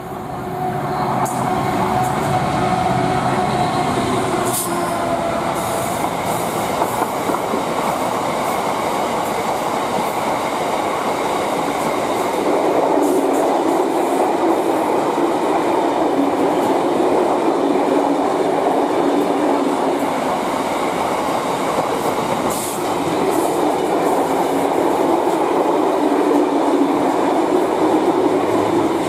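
A Class 59 diesel locomotive's two-stroke V16 engine running as it passes in the first few seconds, then a long rake of bogie hopper wagons rolling by with a steady rumble of wheels on rail and a few sharp clicks.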